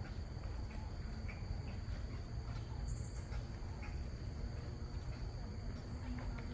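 Outdoor ambience of insects trilling steadily at two high pitches over a low rumble of wind, with a few faint, short bird chirps.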